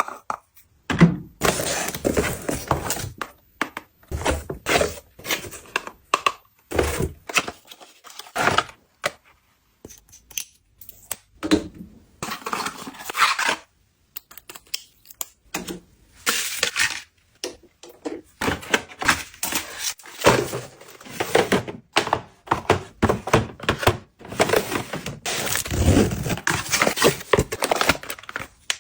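Unboxing handling noise: an irregular run of packaging being torn and rustled, and items knocking as they are handled and set down, with short pauses.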